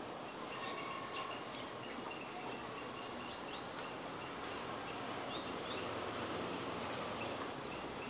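Small birds chirping and whistling in short, scattered calls over a steady background hiss.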